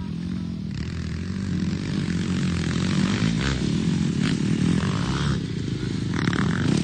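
Dirt bike engine running, its pitch rising and falling as the throttle is worked, getting louder over the few seconds, with a few short scraping clicks.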